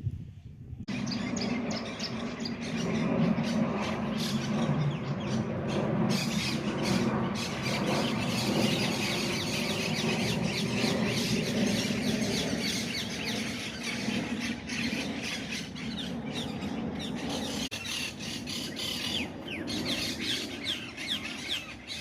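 Many birds squawking, squealing and chirping at once in a dense, continuous chorus that starts about a second in.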